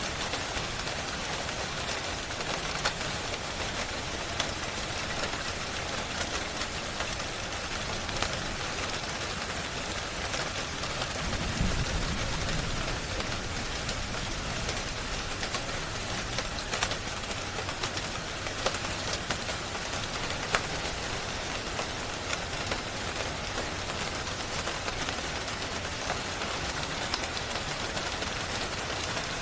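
Steady rain hissing, with scattered sharp crackles and pops of a wood fire throughout. A brief low rumble comes about twelve seconds in.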